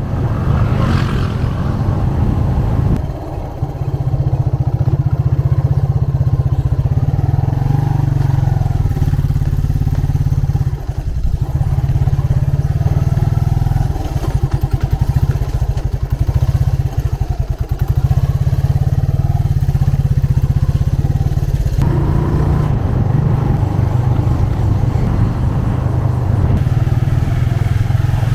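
Motorcycle engine running under the rider as it rides along, a steady low drone that dips briefly about three seconds in and again around eleven seconds, with an uneven pulsing in the middle as the throttle changes.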